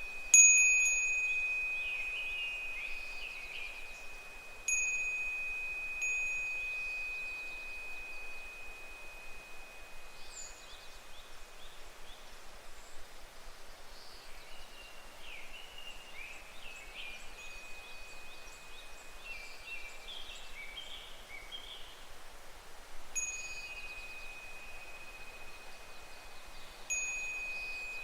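A Japanese fūrin wind chime struck by the wind about five times, each strike a single clear bell tone that rings on and slowly fades. Between the strikes, evening cicadas (higurashi) call faintly in falling, repeated trills, a little after the start and again through the middle.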